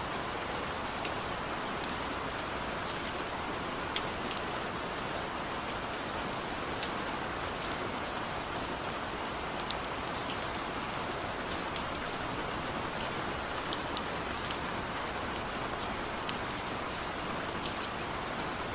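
Steady rain falling, a constant hiss with scattered sharp ticks of single drops landing close by.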